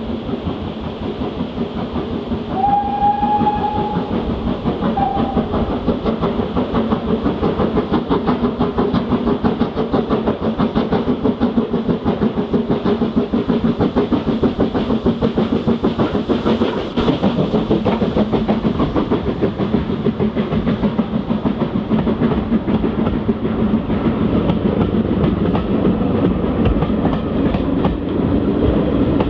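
Steam locomotive hauling a train, its whistle sounding once about two and a half seconds in and briefly again a second later, over a fast, continuous rhythm of exhaust beats and wheels clattering on the rails.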